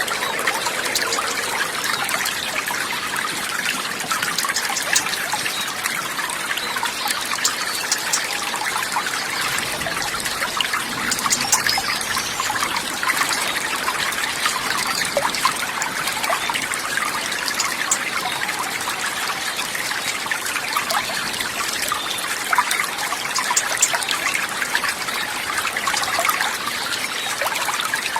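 Steady trickling, babbling water, a constant dense splashing with many small ticks and no pauses.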